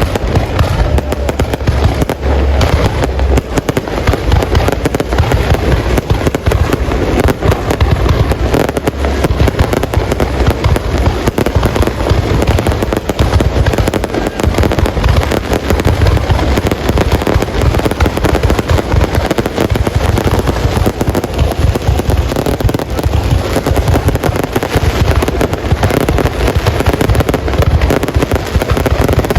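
Fireworks display going off without a break: a dense, continuous run of bangs and crackles over deep booms.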